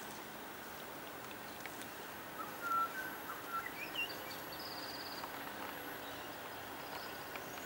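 Birds calling over a faint, steady outdoor background: a few short whistled notes climbing in pitch about three seconds in, followed by a brief high trill.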